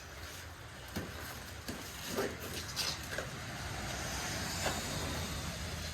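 Plasti Dip rubber coating being peeled off a truck's paint by hand: a tearing hiss with scattered small crackles as the film pulls away.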